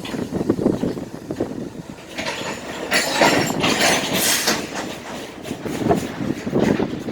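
BNSF grain train rolling slowly past after starting to move again, its freight cars' wheels rumbling and clacking over the rails, with a louder hissing stretch about two to four seconds in.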